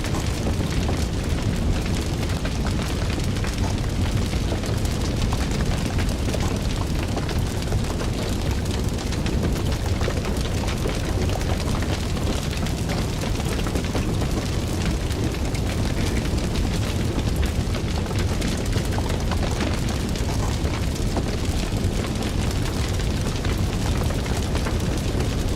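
Fire crackling: dense small pops and snaps over a steady low rumble, unbroken throughout.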